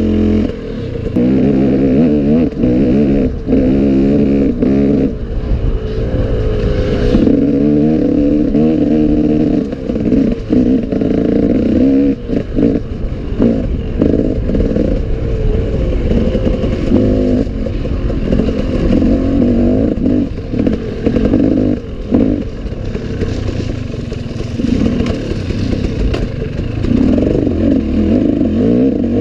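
Off-road enduro motorcycle engine revving up and down over and over as it is ridden, with clattering knocks from the bike over rough ground.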